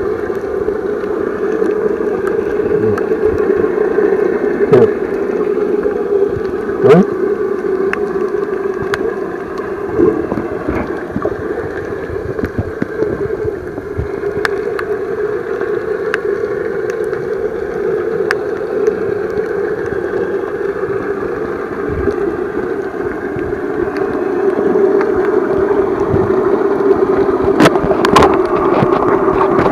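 Underwater sound heard while snorkelling: a steady muffled hum and water noise, with scattered sharp clicks throughout.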